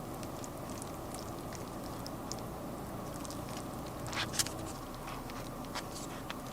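A steady machine-like hum, with scattered light clicks and taps over it and a short burst of louder clatter about four seconds in.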